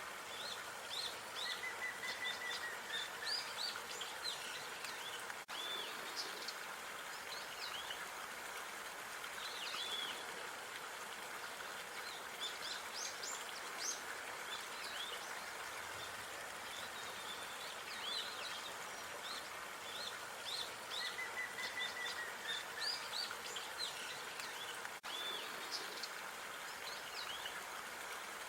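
Park ambience: small birds chirping and calling over a steady background hiss, with a short trill about two seconds in and again about 21 seconds in, where the looped recording repeats.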